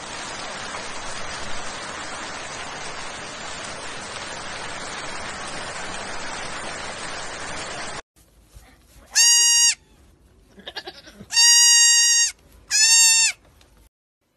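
Heavy rain pouring down steadily. After a cut, a young goat bleats loudly three times, each a high, held call of about half a second to a second.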